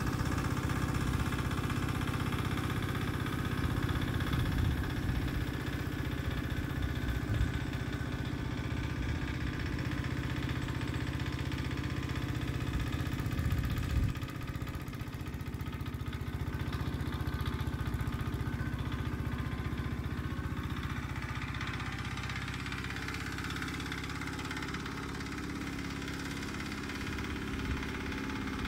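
Petter AC1Z single-cylinder air-cooled diesel engine running steadily, becoming a little quieter about halfway through.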